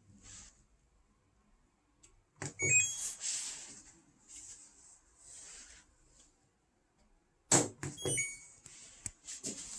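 Washing machine being handled: two clusters of clicks and knocks with short, high electronic beeps, about two and a half seconds in and again about seven and a half seconds in, with soft hissing between.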